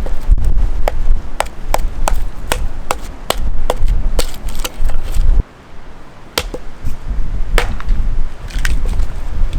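Firewood being split with repeated sharp wooden strikes, about two a second, over a low rumble. After a sudden break about halfway through, the strikes come more sparsely.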